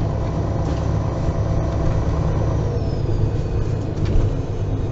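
MAN Lion's City G articulated city bus running, heard from inside the passenger cabin: a steady low engine drone with road and body noise.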